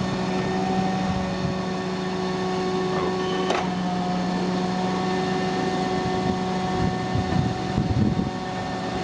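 Vacuum truck running its engine and vacuum pump, a steady mechanical drone with a constant hum. A single sharp knock about three and a half seconds in, and some uneven low rumbling near the end.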